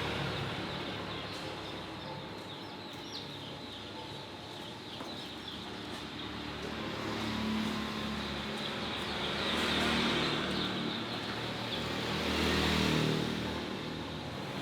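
Road vehicles passing, the noise swelling and fading twice in the second half, with faint high peeping of newly hatched chicks in the first few seconds.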